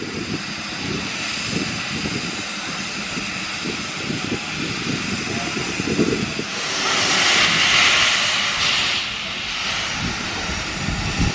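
Steam hissing from the Ivatt 2MT tank locomotive, over an irregular low rumble, with a louder, longer burst of steam from about six and a half seconds in to about nine.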